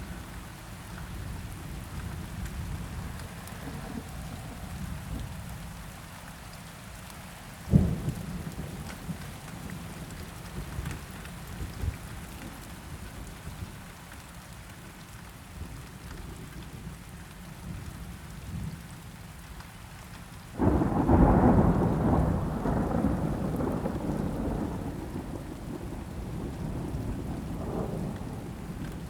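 Steady rain with thunder. There is a short, sharp thunderclap about eight seconds in. About two-thirds of the way through, a sudden loud roll of thunder breaks in and then rumbles away slowly.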